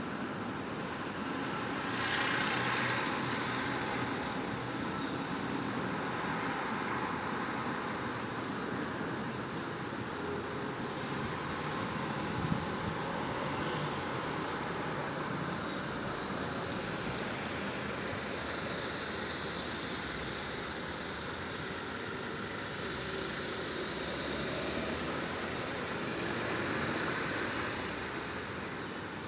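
Steady city road traffic with vehicles passing, swelling about two seconds in and again near the end. A single short click about twelve seconds in.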